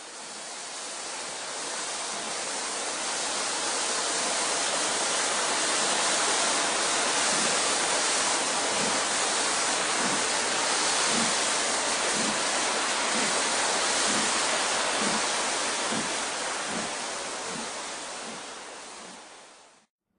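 Recorded sound of a full-size train running past: an even rushing noise that swells up, holds, then dies away near the end, with a regular soft low thump a little more than once a second through the middle.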